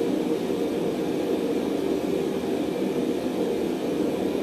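A forge running with a steady, even rushing noise and no hammer blows, while steel heats in it.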